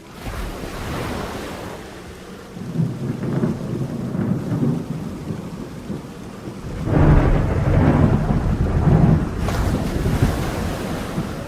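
Steady rain with thunder rumbling through it: a first roll a couple of seconds in and a louder, longer one about seven seconds in.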